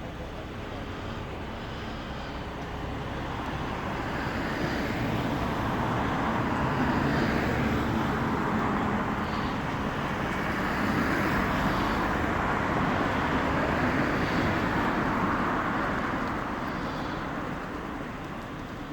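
Bombardier Flexity 2 light-rail tram passing by. Its running noise swells over several seconds, holds loudest for a while, then fades away near the end.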